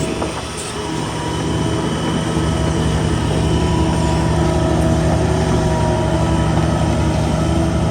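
Heavy diesel engine of earthmoving machinery running steadily under load. The sound dips briefly just after the start, then builds back up and holds.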